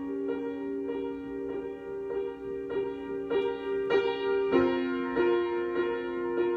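Solo piano improvisation: a held chord with notes restruck at an even, unhurried pulse, moving to a new chord a little past the middle.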